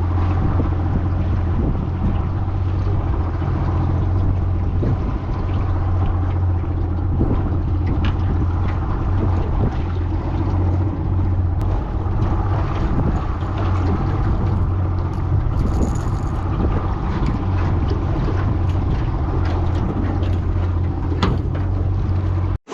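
Outboard motor running steadily, pushing a small aluminium tinny along a creek, with a strong low hum.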